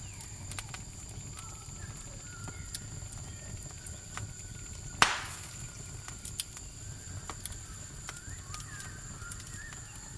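Wood campfire crackling with scattered sharp snaps over a low steady rumble, and one loud pop about five seconds in. A steady high cricket trill runs underneath.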